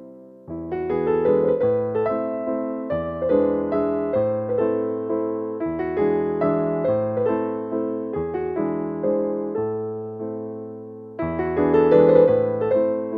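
Background piano music: a slow, gentle melody of single struck notes over chords, each note fading after it is played, with a louder phrase coming in near the end.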